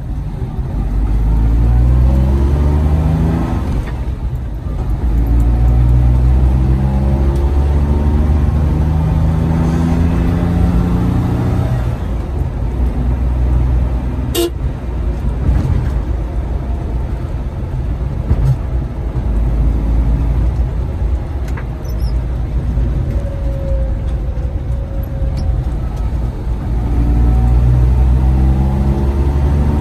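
Maruti Suzuki Omni van driving, its small three-cylinder engine rising in pitch over a few seconds and dropping again as it pulls through the gears, over a deep low rumble. One sharp click about halfway through.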